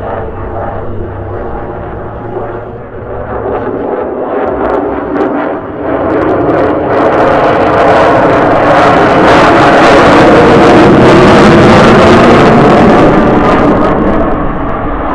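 Jet engine roar of a low-passing F-35A Lightning II, building over several seconds to a loud peak and then easing off slightly as it passes.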